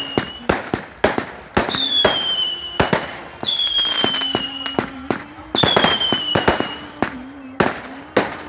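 Fireworks going off in quick succession: sharp cracking bangs several times a second, mixed with whistling shells whose shrill whistle starts about every two seconds and slides slightly down in pitch over about a second and a half.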